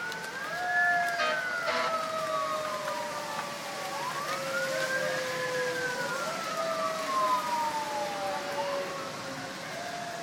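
Two emergency-vehicle sirens wailing together, out of step. Each rises quickly in pitch and then falls slowly over about four seconds.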